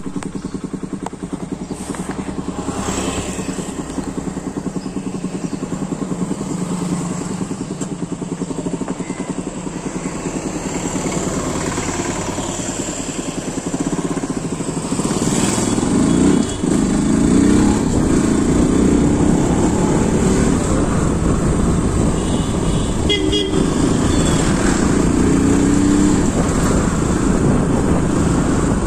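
A motor vehicle engine running steadily, growing louder about halfway through, with a brief swoop in pitch shortly after.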